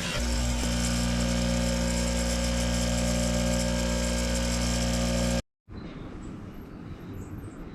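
Electric power tool motor running steadily at constant speed; the sound cuts off abruptly about five and a half seconds in, leaving only faint background noise.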